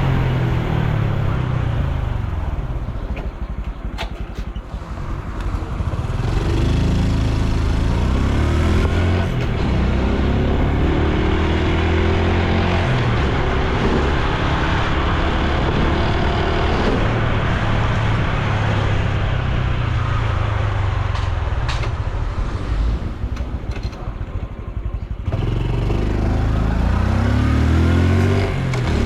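Honda Super Cub C125's single-cylinder engine and exhaust under way. The pitch climbs several times as it accelerates through the gears, and it eases off twice, around four seconds in and again near the end, with road and wind noise underneath.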